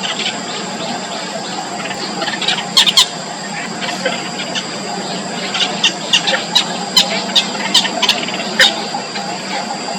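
Four-day-old nestlings giving short, high-pitched cheeps, typical of begging for food. There is a burst of them about three seconds in and a quicker run of about a dozen in the second half, over a steady high whine and low hum.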